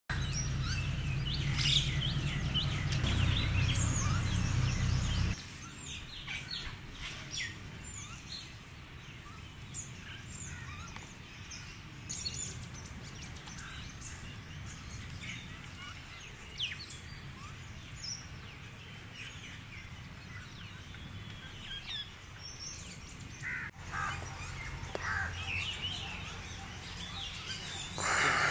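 Small wild birds chirping and calling in short, scattered high notes. A low steady rumble sits under them for the first five seconds and cuts off suddenly, then comes back more faintly in the last few seconds.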